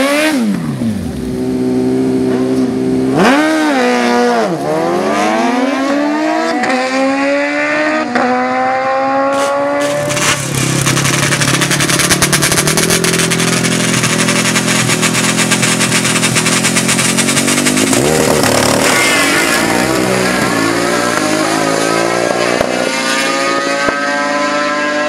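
Racing engines revving hard: a quick rev up and down near the start, then a long rising pull to full speed. From about ten seconds in a louder, rougher engine note takes over, and near the end another engine note climbs steadily in pitch.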